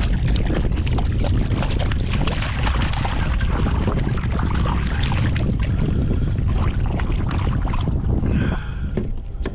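Wind buffeting the microphone on a fishing kayak, with water splashing and scattered crackly clicks. A brief high-pitched sound with a few stacked tones comes near the end.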